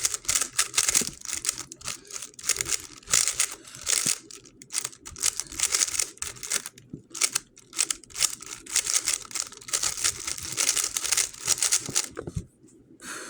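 GAN 11 M Pro magnetic speedcube being turned fast during a solve: a dense rattle of quick plastic clicks and clacks with brief pauses, stopping about a second before the end.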